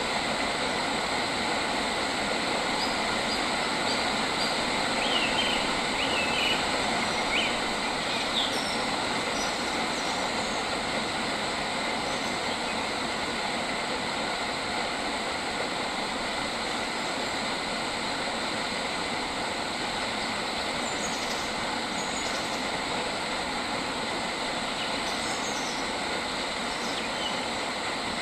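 A steady, dense rushing noise runs throughout. A few short, faint bird chirps come through about five to eight seconds in, and again twice near the end.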